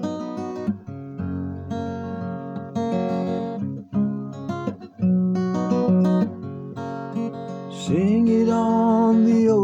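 Acoustic guitar playing a chordal introduction to a song. About eight seconds in, a voice comes in singing a long held note over the guitar.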